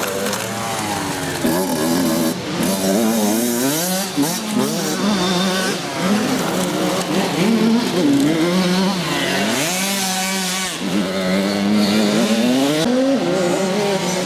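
Motocross bike engines revving up and falling back again and again as the bikes accelerate and change gear, with more than one bike heard at times.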